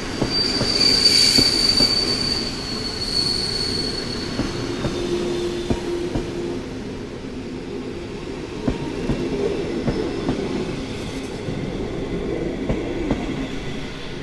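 Locomotive-hauled passenger coaches rolling slowly past, their wheels clacking over rail joints. A high metallic wheel squeal sounds for the first four seconds or so, then fades.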